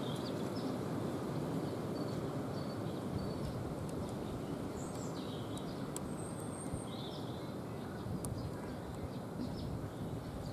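Small woodland songbirds give short, scattered chirps and calls, with one brief high trill about six seconds in, over a steady low background rumble.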